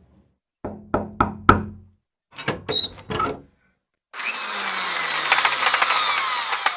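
Four quick knocks, about a third of a second apart, then a short cluster of clicks. About four seconds in, a steady hiss starts, crossed by several falling whistling tones.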